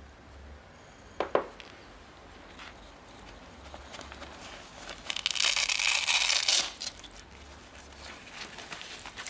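Velcro closure on a leather motorcycle glove ripped open in one long tear about five seconds in, amid light rustling as the glove is handled. There is a short knock about a second in.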